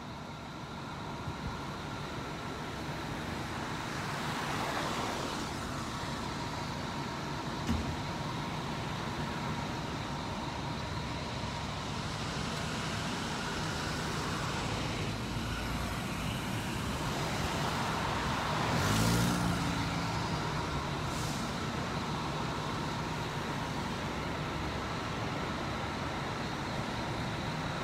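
Road traffic going by: a steady wash of passing vehicles, with a louder vehicle whose engine note rises and falls as it passes about nineteen seconds in.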